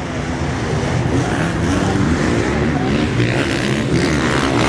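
Motocross dirt bikes racing, several engines revving at once and growing louder as the pack comes closer.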